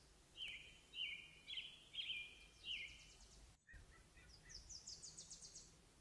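Wild songbird singing: five short downward-sliding whistled notes about half a second apart, then, after a brief dropout, a quicker run of higher, thinner notes.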